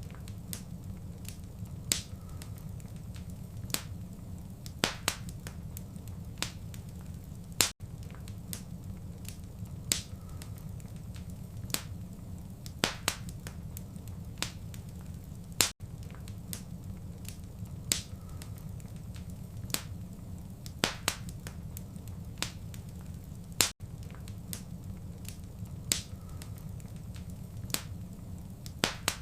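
Wood fire crackling in a fireplace: sharp pops come a second or two apart over a steady low rumble. The sound cuts out for a split second about every eight seconds, where the short recording loops.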